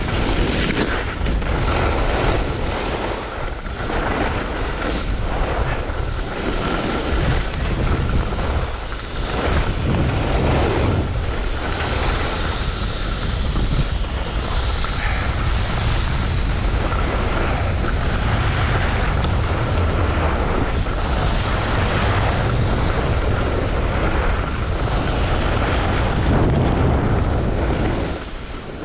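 Wind rushing over a helmet-mounted camera microphone during a fast ski descent, with skis scraping and carving through the snow in repeated turns. The level drops near the end as the skier slows.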